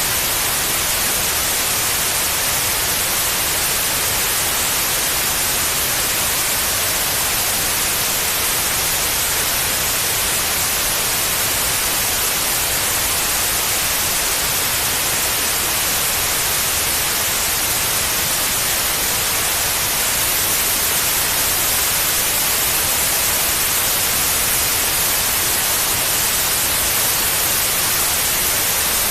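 Steady white noise: an even, unbroken hiss, brightest in the high frequencies, played to soothe a baby to sleep.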